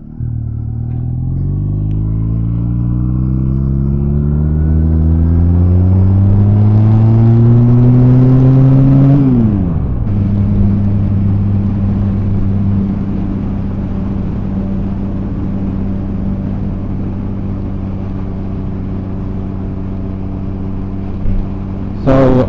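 Honda Rebel 250's parallel-twin engine accelerating, its pitch rising steadily for about nine seconds, then falling sharply and settling into a steady run at constant speed.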